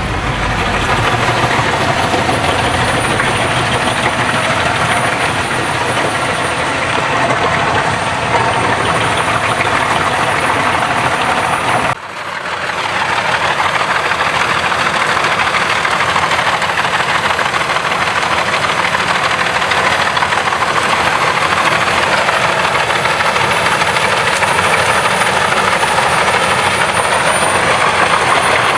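Albach Diamant 2000 industrial wood chipper running at work: a loud, steady machine noise with a thin high whine on top. It breaks off briefly about twelve seconds in and builds back up.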